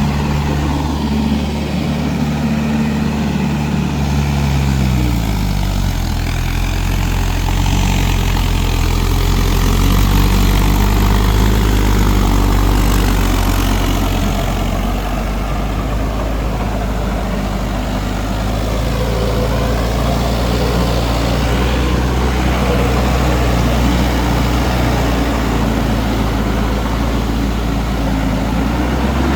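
Mahindra 4WD DI tractor's diesel engine running steadily; its note drops about four to five seconds in and then holds low and even.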